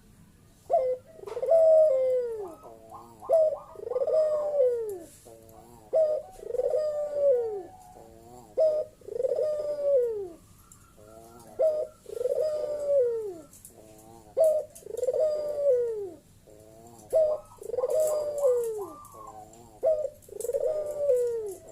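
Puter (collared dove) cooing over and over, each call a short sharp note followed by a longer falling coo, about one every two seconds: the loud 'bekur' call used to challenge rival males.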